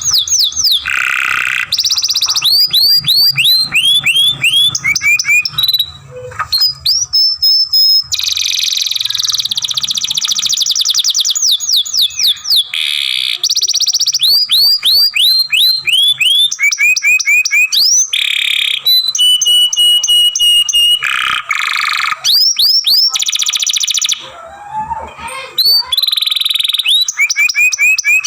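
Young canary singing a long, varied song: fast rolls and trills alternating with runs of quick down-slurred whistles, with one brief pause about three-quarters of the way through.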